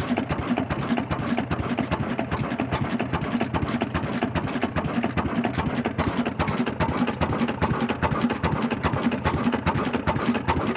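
Old Ruston Hornsby black stationary diesel engine running steadily, its firing a fast, even beat.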